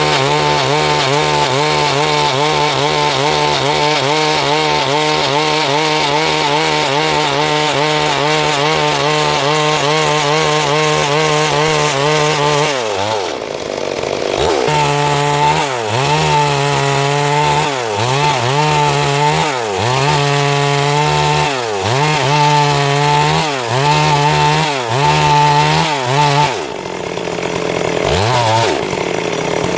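Stihl MS 382 two-stroke chainsaw running at high revs under the load of a cut for about twelve seconds. It then eases off and is revved in a string of short rises and falls, about one every second and a half, before dropping back with one last brief blip near the end.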